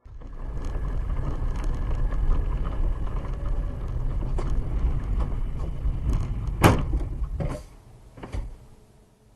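Car on a snowy road with a steady low rumble, then a loud sharp bang about two-thirds of the way through and two lighter knocks after it, as the rumble dies away.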